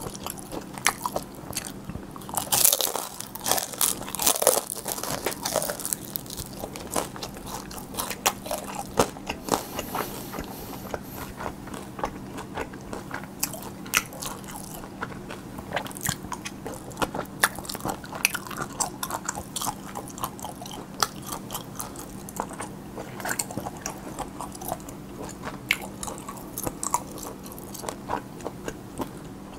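Close-miked crunchy biting and chewing of a crisp pan-fried dumpling (gun-mandu), the fried wrapper crackling in many small crunches, thickest a few seconds in.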